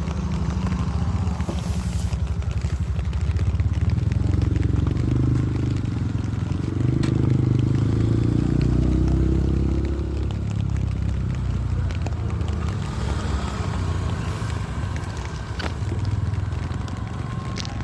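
An engine running steadily with a fast even pulse, louder for a few seconds in the middle.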